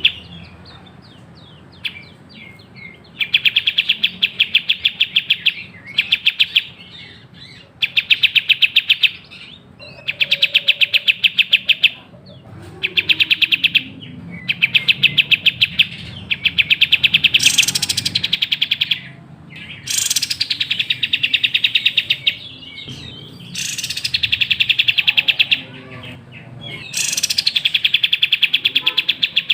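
Kapas tembak bulbul singing in repeated bouts of very rapid, machine-gun-like trilling, each bout one to three seconds long with short pauses between. A few bouts open with a quick rising sweep.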